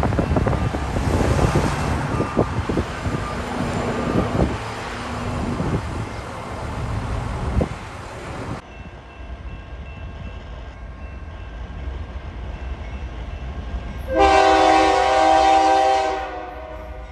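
Open ballast hopper cars rolling past with a rumble and scattered wheel clicks over the rail. After a cut, a BNSF GE Dash 9-44CW locomotive sounds its air horn near the end, a loud chord of several tones held for about two seconds, a warning for the grade crossing ahead.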